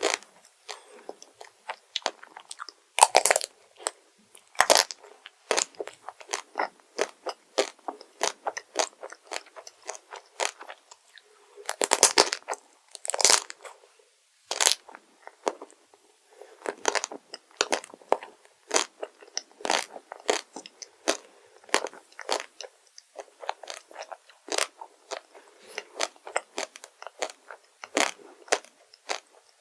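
Close-miked eating sounds: a person biting and chewing crunchy chocolate desserts, a run of crisp crunches with a few louder bites about 3, 5 and 12 to 13 seconds in.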